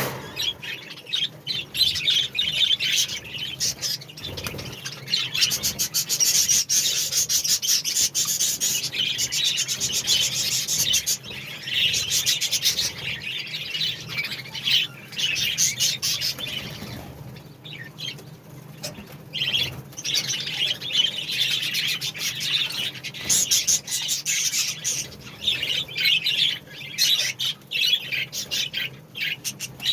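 Budgerigars chattering and chirping in a continuous busy warble full of rapid clicks and squawks, with a short lull a little past halfway.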